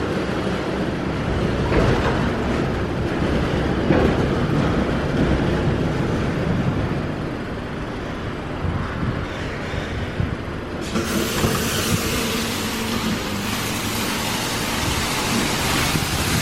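Mark VII Aquajet XT touchless car wash machinery running. About eleven seconds in, a steady hiss sets in suddenly.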